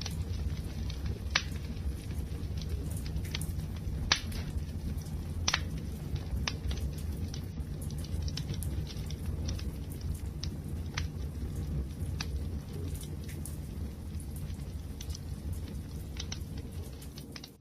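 Wood fire crackling: a steady low rumble of burning with frequent sharp pops and snaps scattered irregularly, the strongest ones about a second and a half, four and five and a half seconds in. The sound drops away briefly at the very end.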